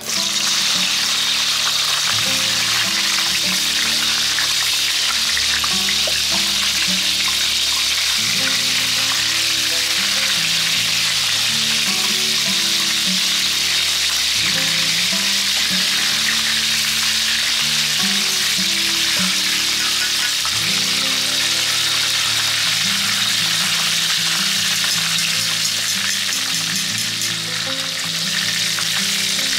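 Bell peppers, shiitake and long leek in a stainless mesh strainer being oil-blanched in hot oil, sizzling loudly and steadily; the sizzle starts suddenly as the strainer goes into the oil. Background music plays underneath.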